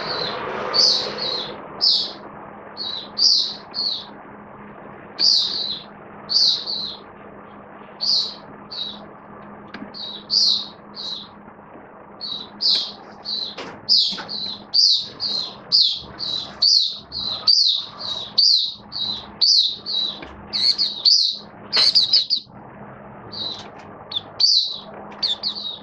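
A white-eye (mata puteh) songbird singing: short, high chirped notes, spaced out at first, then coming faster in a quick run of notes from about halfway through. A faint steady hum runs underneath.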